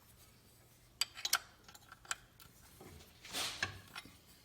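A few faint, sharp metallic clicks and clinks of a wrench being fitted to and worked on a bolt in an engine bay, with a short soft rush of noise a little after three seconds.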